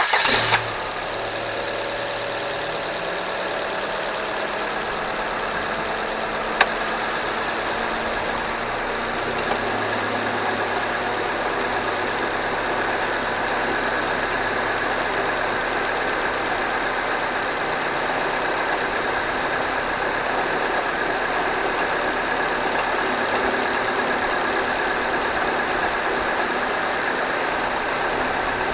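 A 2009 Ford Fiesta 1.4 four-cylinder petrol engine starting from cold and settling into a steady idle. About six seconds in, a single loud click from the air-conditioning compressor clutch engaging; from about ten seconds on, a faint intermittent ticking that the owner hears only on cold starts and that stops after about five minutes.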